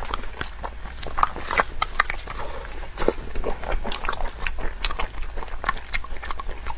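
Close-miked eating: biting and chewing food, with many short, irregular wet mouth clicks.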